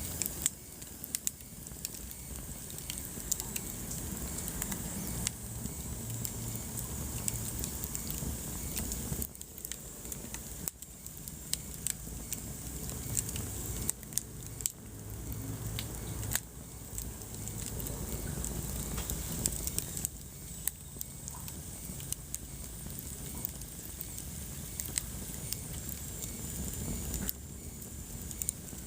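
Wood fire burning in a fireplace: frequent sharp crackles and pops over a low, steady rumble of flames.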